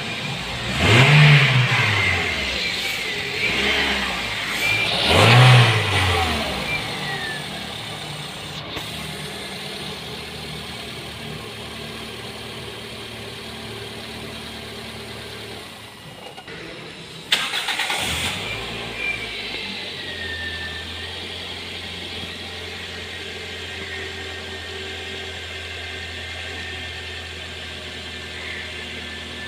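Toyota Corolla Altis four-cylinder VVT-i petrol engine running after its no-start fault was repaired: it is revved up and back down twice in the first few seconds, then settles to a steady idle. A brief knock sounds about two-thirds of the way through.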